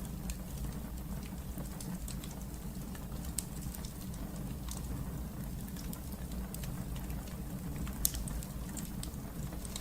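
Wood fire burning in a fireplace: a steady low rumble of flames with scattered irregular crackles and pops, one sharper pop about eight seconds in.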